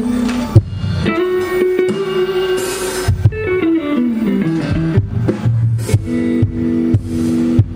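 Electric guitar played through a live PA: held notes, a descending run of notes about halfway through, then steady repeated chords near the end, with bass underneath and a few sharp hits.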